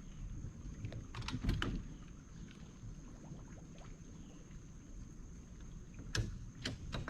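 Low rumble of water and wind at a boat launch, with a few sharp clicks and knocks about a second and a half in and twice more near the end, as the boat and trailer gear are handled.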